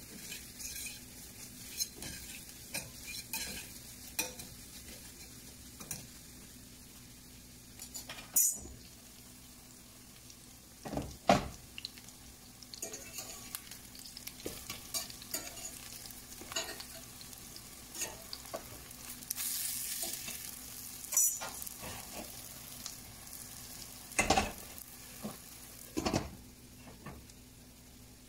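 Mushroom patties sizzling in hot oil in a stainless steel pan, with a metal spoon stirring onions in a second skillet. Scattered clinks and knocks of the spoon, a spatula and the pan lid against the steel pans; the sizzle swells for a few seconds past the middle.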